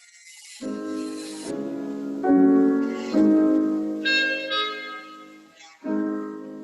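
Classical instrumental music led by piano, sustained chords changing about every second, with a brief pause near the start and another just before the end.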